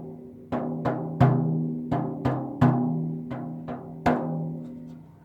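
Elk-skin rawhide hand drum being played, about nine unevenly spaced beats, each leaving a low ringing tone that dies away; the last beat falls about four seconds in and its ring fades out.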